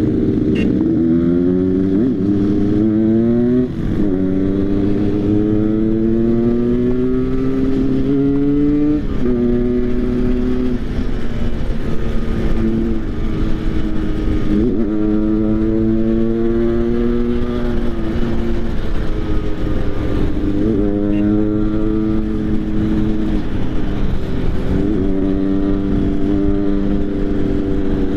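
Motorcycle engine under way, pulling through the gears: its pitch climbs slowly, then drops sharply at each upshift, about every four to six seconds.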